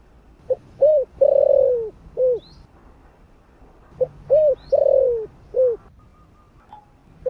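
Spotted dove cooing, two phrases a few seconds apart. Each phrase is four low notes: a short coo, an arched coo, a long falling coo and a short closing coo.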